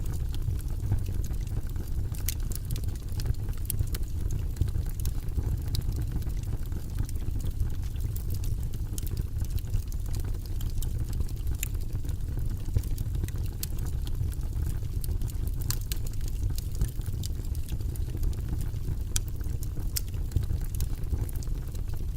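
Fire burning in a fireplace: a steady low rumble of flames with sharp crackles and pops at irregular moments.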